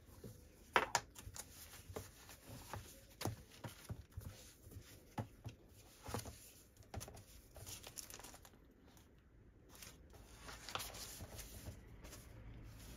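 Rustling with scattered light clicks and knocks of things being handled, a sharper knock about a second in.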